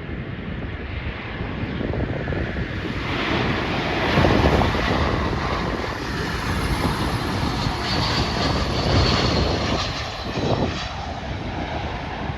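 Jet airliner coming in to land, its engine noise swelling to a peak about four seconds in and staying loud, with a faint high whine later on. Wind buffets the microphone throughout.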